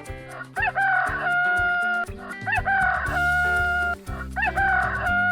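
Rooster crowing three times, each crow a short rising start and then a long held note, over background music.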